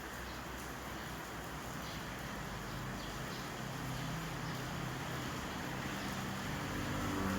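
Steady hiss of rain and wind, with soft background music fading in during the second half.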